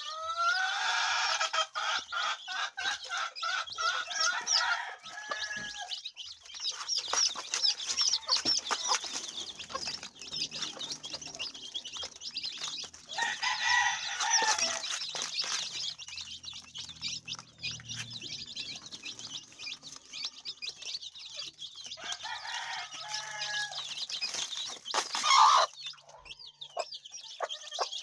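Chickens clucking and calling, with many short high chirps throughout and three longer drawn-out calls.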